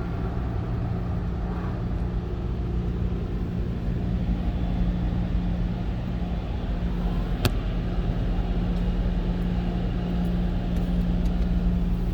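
Car wash tunnel equipment running steadily: a low rumble with a steady hum, and a single sharp click about seven and a half seconds in.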